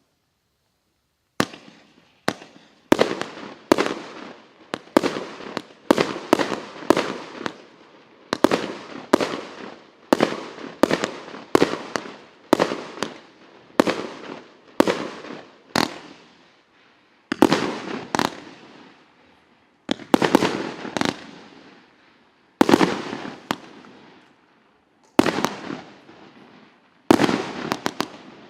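A 146-shot consumer fireworks battery with 0.8 to 1.5 inch tubes firing shot after shot: sharp reports, each with a fading tail. They come in quick runs separated by short pauses, starting about a second and a half in.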